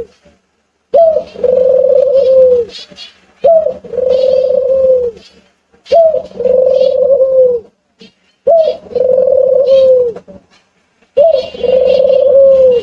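A dove cooing, repeating the same call five times about every two and a half seconds: a short note, then a long held low note that drops away at its end. Small birds chirp faintly and high-pitched alongside the cooing.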